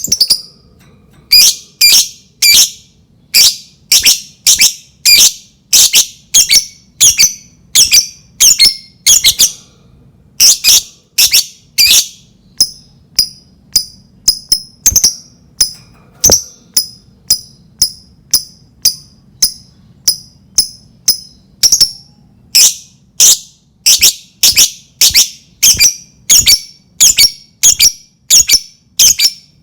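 Lovebird calling: a long run of short, shrill chattering calls, about two a second, evenly spaced. They are softer for a stretch in the middle and loud again near the end.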